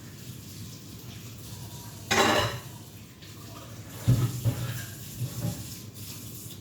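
Kitchen clatter: a short rushing noise about two seconds in, then a few knocks and clinks of dishes between about four and five and a half seconds.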